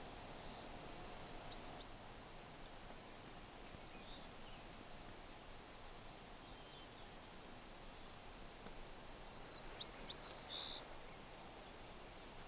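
A small bird calls twice, about eight seconds apart: each call a short high whistle followed by a quick run of sharp notes, over a steady faint background hiss.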